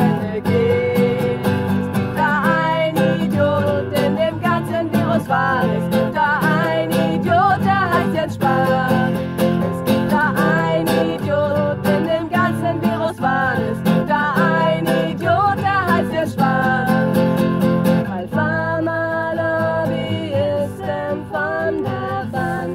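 Strummed acoustic guitar with women's voices singing a melody over it, a live cover song.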